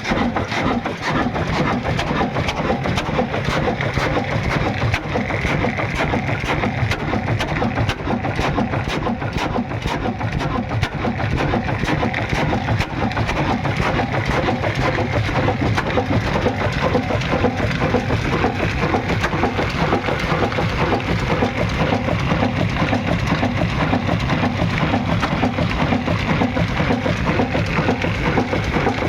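Old Ruston Hornsby diesel engine running steadily, a fast, even train of firing knocks.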